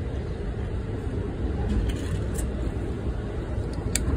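Steady low rumble inside a passenger train car, with a few small clicks and a sharper click near the end.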